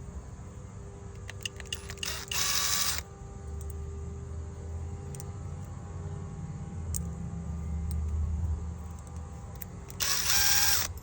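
Two short bursts of a Skil brushless cordless impact driver being run, each lasting just under a second, about 2 seconds in and again near the end.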